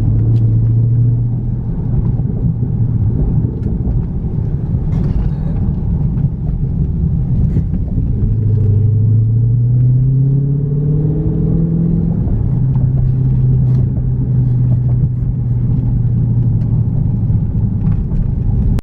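Dodge Charger Scat Pack's 392 Hemi V8 droning steadily while driving, its pitch rising for a few seconds in the middle as the car accelerates, then settling into a steady cruise.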